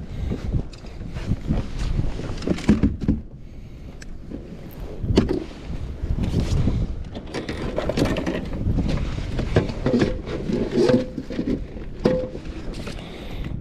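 Wind rumbling on the microphone in a kayak on open water, with irregular knocks and rattles of fishing gear being handled against the hull.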